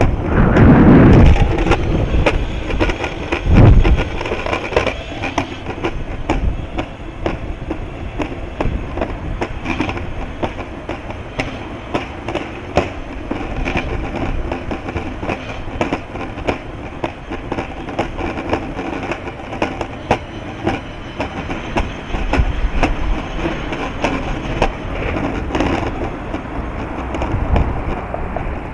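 Wind buffeting the microphone in heavy gusts, hardest in the first few seconds, over a steady rattling, clicking rumble like riding over a rough surface.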